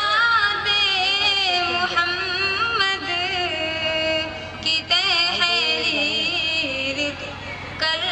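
Female voice singing a naat, an Urdu devotional poem, in long held, ornamented notes.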